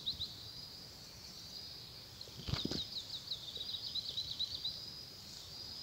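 A small bird singing: quick runs of high, chirping notes, several a second, with the longest run in the middle, over a faint outdoor hiss. A brief soft thump about two and a half seconds in.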